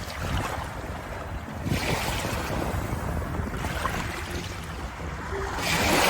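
Water sounds in surges that build and fall away every couple of seconds, like waves washing in.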